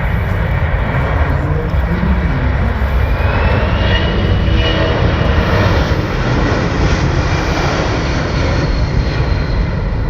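Boeing C-17A Globemaster III military transport jet passing with the steady roar of its four turbofan engines, and a faint high turbine whine rising in pitch about midway.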